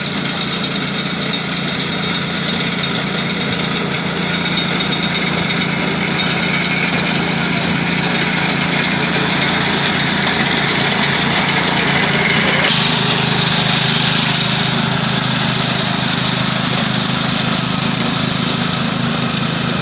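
Small mini-tractor engine running steadily. Its note shifts about two-thirds of the way through.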